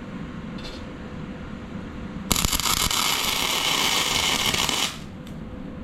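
Welding arc crackling and hissing for about two and a half seconds as a tack weld is laid on steel, starting and stopping abruptly.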